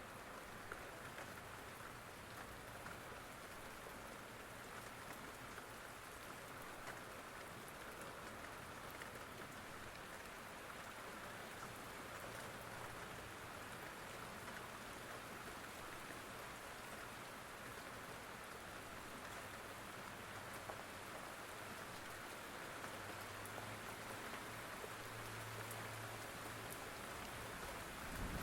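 Steady rain falling, an even hiss with fine scattered drop ticks. A faint low hum sits underneath.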